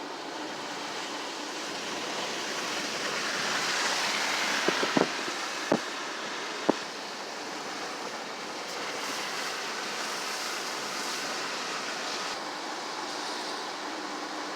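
Steady rushing noise that swells for a few seconds in the middle, with three or four sharp clicks close together near the middle.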